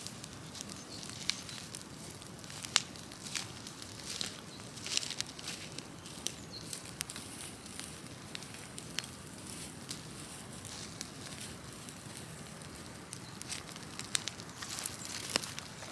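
Large open bonfire of cut trees and brush burning, with sharp irregular crackles and pops over the steady low noise of the flames.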